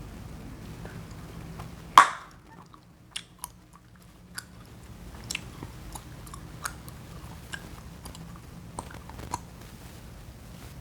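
Chewing gum being chewed and popped close to the microphone: one loud, sharp gum pop about two seconds in, followed by smaller wet clicks and snaps every second or so.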